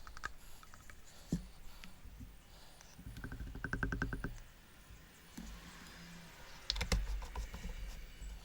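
Light clicks and taps of handling parts while refilling a shock absorber with oil. There is a quick run of about nine even ticks a second, a little after three seconds in, and a cluster of louder clicks near seven seconds.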